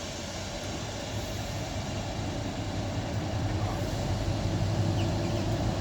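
Class 60 diesel locomotive's engine working hard as it pulls away with a heavy train: a steady low drone that grows gradually louder.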